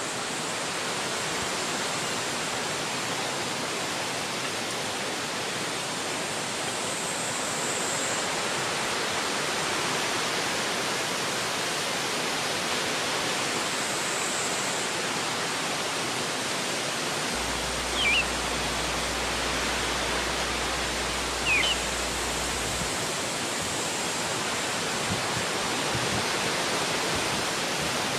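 Wind rushing steadily through forest trees. Two brief high chirps come through about two thirds of the way in.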